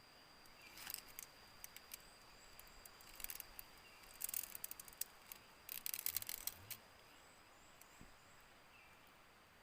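Crackling rustles of dry vegetation in four short bursts, as the nest site is handled, over a steady high-pitched insect drone.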